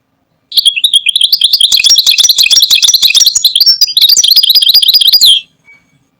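European goldfinch singing a rapid, twittering song that starts about half a second in, runs for about five seconds and stops abruptly.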